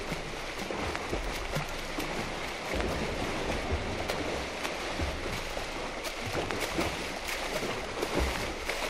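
Swimmer splashing through pool water, a continuous irregular wash of splashes with uneven low slaps of the strokes.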